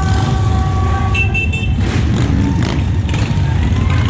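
Motorcycle engines rumbling steadily as the bikes parade past, with horns sounding through the first second and a higher, shorter toot about a second in.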